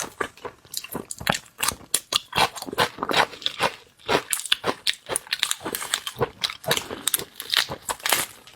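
A person chewing and biting seafood close to the microphone: a dense, irregular run of wet crunches and crackles.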